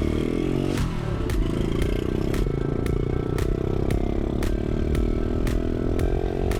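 Pit bike's small engine running under throttle: its pitch dips about a second in, then climbs steadily as the bike accelerates. Sharp ticks come about twice a second.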